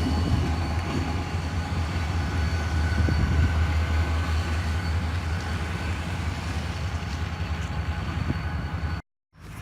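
Diesel freight train rolling past: a steady low rumble with a faint steady whine above it, easing slightly over the seconds. The sound drops out completely for a moment just before the end, then resumes quieter.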